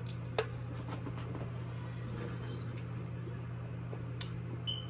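Faint eating sounds, with a couple of light clicks, over a steady low electrical hum.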